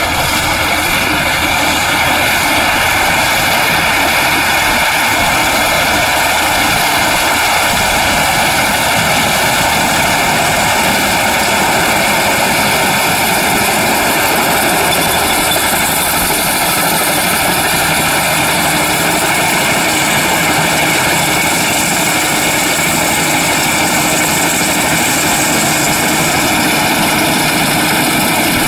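Mini wheat combine harvester running steadily, its engine and cutting and threshing works making a loud, even mechanical noise.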